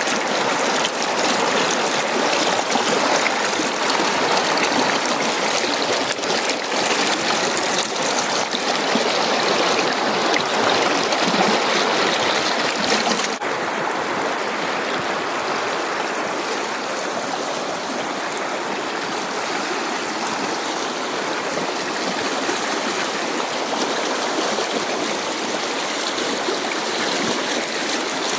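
Hill stream rushing over rocks: a dense, steady wash of flowing water, a little quieter from about halfway through.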